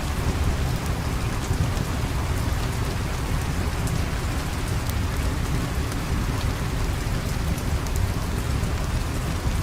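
Steady rain falling, an even hiss over a heavy low rumble, with scattered faint high ticks throughout.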